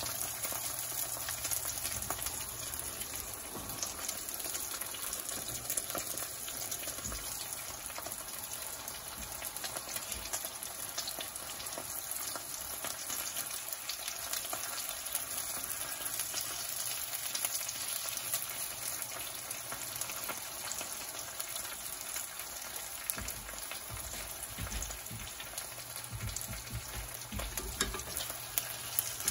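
Oil sizzling and crackling steadily in a frying pan as pieces of vegan BBQ duck fry slowly, with a few soft low bumps near the end.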